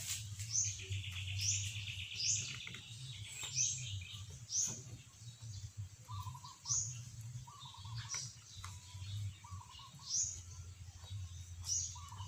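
Songbirds chirping: repeated short, high chirps that sweep downward, a rapid trill for about two seconds near the start, and lower warbled notes through the second half. Under them runs a low steady hum, with a few sharp knocks now and then.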